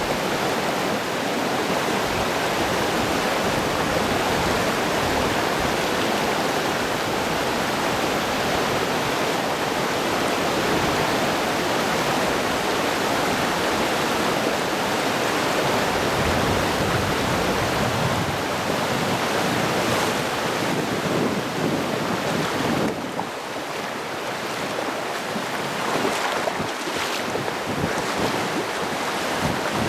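Mountain stream water rushing over rocks, a steady loud rush that drops a little about 23 seconds in.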